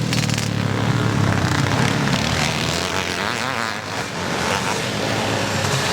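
Classic off-road motorcycle engines racing past at speed, loudest in the first couple of seconds and then dropping back as the bikes move away.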